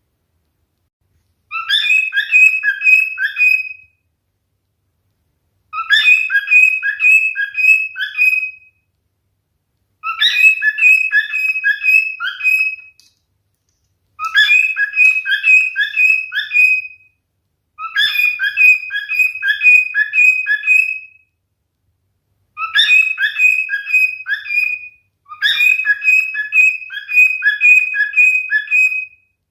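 Male cockatiel whistling its song: the same short phrase of five or six quick notes, repeated seven times with pauses of a second or two between.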